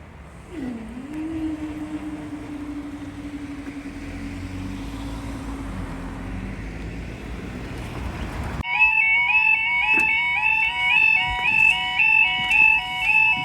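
A train running past with rumble and a steady droning tone, with wind on the microphone. About two-thirds of the way in, this gives way abruptly to a level crossing's electronic alarm: a loud, rapidly alternating two-tone warble that repeats steadily.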